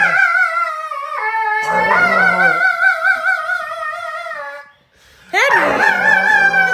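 Dog howling in long, drawn-out wavering notes, a 'diva' sing-along; one long howl, then after a short breath about five seconds in, another.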